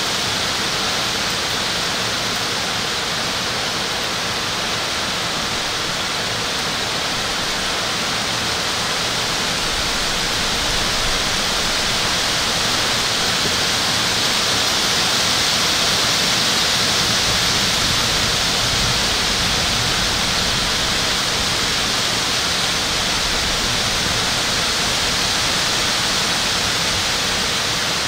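Heavy rain falling steadily in a thunderstorm, an even hiss that swells a little in the middle.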